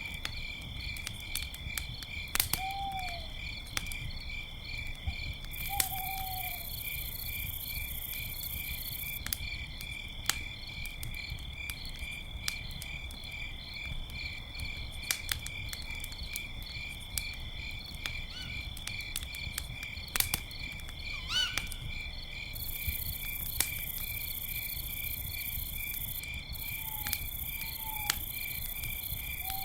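Crickets chirping steadily at night over a crackling campfire that gives frequent sharp pops. Short owl hoots come now and then, once near the start, again a few seconds later, and three times close together near the end.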